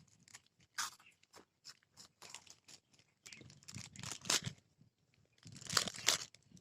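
Crisp salted biscuits crunching as they are bitten and chewed, in irregular crackling clusters about a second in, around four seconds and around six seconds.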